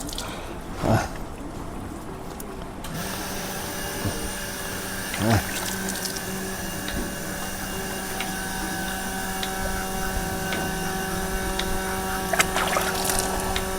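Milking machine's vacuum pump motor switching on about three seconds in and then running with a steady hum, with a few light knocks over it.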